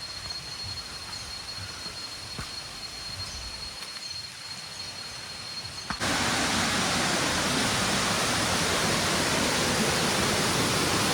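A steady high insect trill over forest quiet. About six seconds in it cuts abruptly to the loud, even rush of a waterfall.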